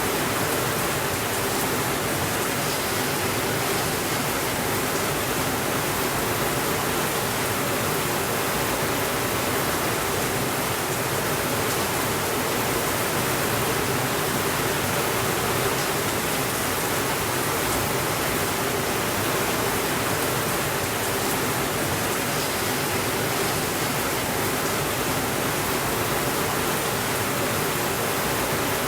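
Steady rainfall, an even hiss that does not rise, fall or break.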